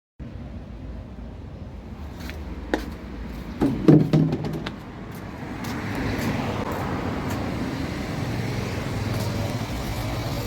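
Car engine running, with a few sharp clicks and a louder burst about four seconds in, then a steady low hum.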